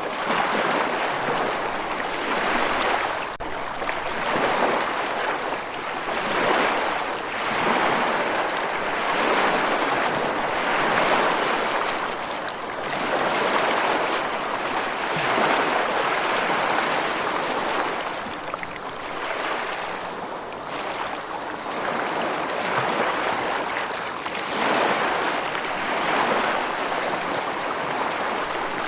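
Rushing water running continuously, swelling and easing every two to three seconds.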